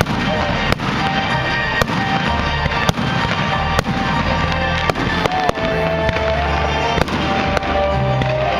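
Fireworks bursting about once a second, sharp bangs over the show's accompanying music, with a short whistle about five seconds in.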